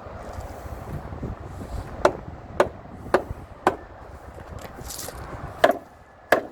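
Hammer blows on timber: four sharp strikes about half a second apart, a short pause, then two more near the end.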